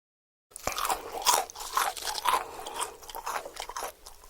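Crunchy chewing: a run of crisp crunches, about two a second, starting suddenly about half a second in and cutting off abruptly at the end.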